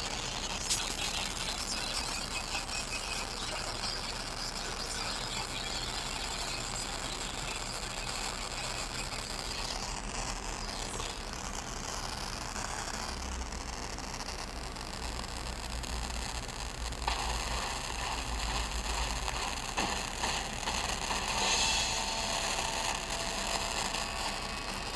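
Harsh, shifting noise and interference coming through an FM radio receiver tuned to 90.7 FM in place of normal programme audio; its texture changes several times, with a deeper rumble in the middle and a brighter hiss later on.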